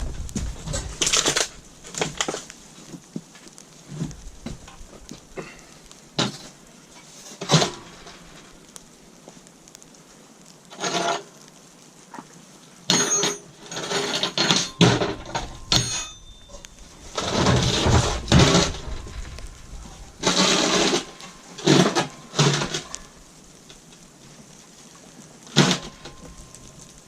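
Irregular clanks, knocks and scrapes of steel parts and tools being handled, with a cluster of ringing metallic clinks about halfway through and longer rasping scrapes after it.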